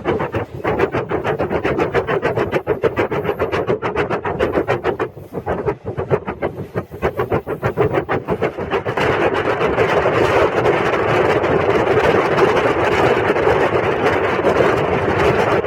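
Running noise of a 12-series passenger coach in motion, heard from on board. A rapid fluttering clatter lasts about the first nine seconds, then gives way to an even, steady rumble.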